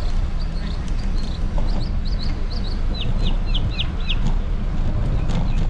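A bird calling over a steady low rumble: a few short high chirps, then about three seconds in a run of five quick downslurred notes. A sharp click or two comes near the end.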